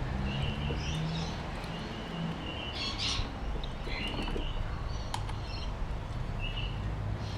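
Birds chirping, a series of short high calls, over a steady low hum, with a couple of sharp clicks and a brief rustle about three seconds in.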